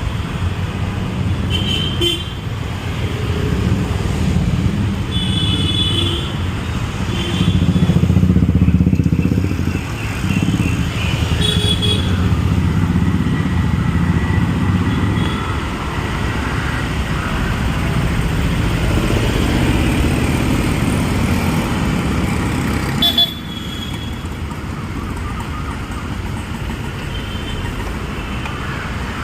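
Street traffic with motorcycles and cars passing close, their engines running steadily, and several short horn toots.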